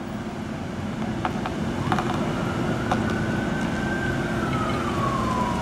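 Steady low hum of idling cars, with a few faint ticks, and from about two seconds in a siren wail that holds its pitch and then slowly falls.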